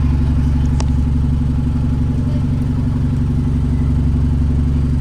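Bus engine running with a steady, loud low drone, heard from inside the bus. A brief click about a second in.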